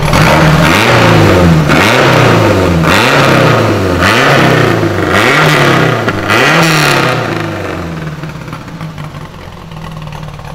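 Lancia Fulvia Zagato 1600's freshly rebuilt narrow-angle V4 engine blipped about six times in quick succession, each rev rising and falling, then settling back to a steady idle near the end.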